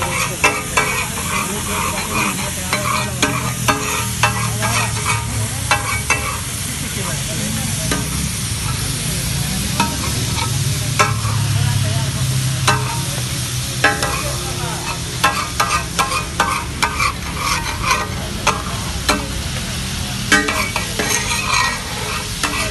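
Chicken sizzling on a tawa (flat iron griddle), with a steady frying hiss and rapid clusters of sharp metallic clicks and scrapes as it is stirred and turned. The clicking is busiest at the start and again in the last third, and sparser in the middle.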